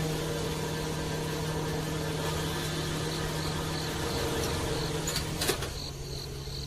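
A small electric motor running with a steady hum, with a couple of light clicks about five and a half seconds in.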